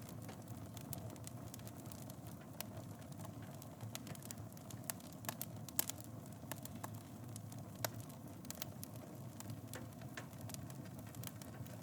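Wood fire burning in a fireplace: a steady low rumble of flames with irregular sharp crackles and pops, a couple of louder pops about halfway and two-thirds through.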